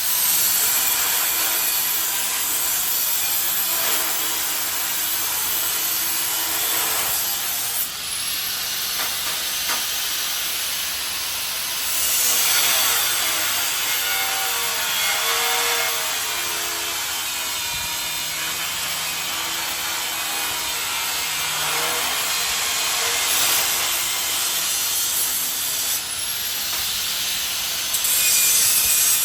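A power tool working the steel of a barbecue smoker gives a steady, harsh rasping hiss that swells and eases a few times.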